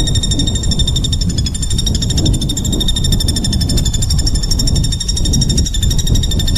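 Small songbird giving a continuous fast, harsh, high-pitched trill, a rapid rattle of repeated notes used as 'tembakan' training song, over a steady low rumble.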